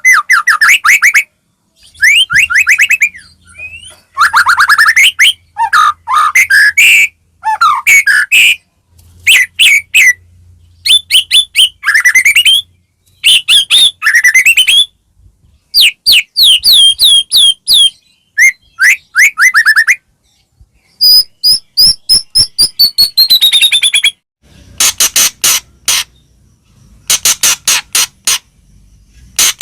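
White-rumped shama singing a long, varied song: quick phrases of whistled notes, fast trills and sweeping pitch glides, broken by short pauses. Near the end come rapid harsh clicking rattles.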